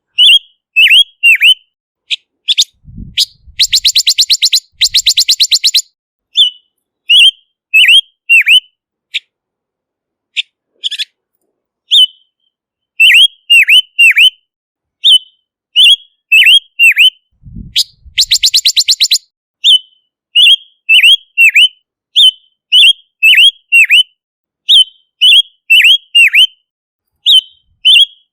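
Silver-eared mesia singing: a quick series of short, sharp whistled notes that slide downward, broken twice by a fast rattling chatter of about ten notes a second.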